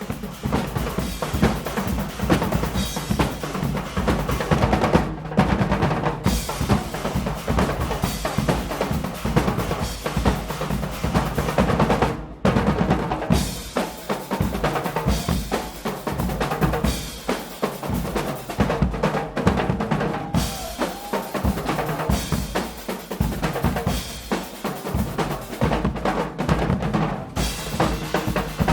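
Guggenmusik carnival band playing loud, continuous drumming with bass drums and snare drums.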